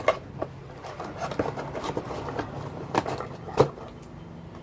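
Camera box packaging being handled while unpacking: light rustling and scraping with scattered knocks and taps, the sharpest about three and a half seconds in.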